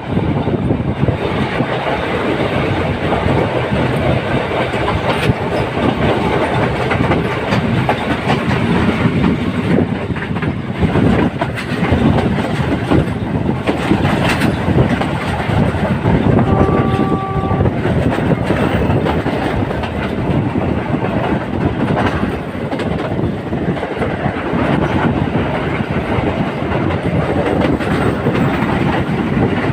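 Train wheels rumbling steadily along the rails, heard from aboard the moving train. A single short horn note sounds for about a second a little past halfway.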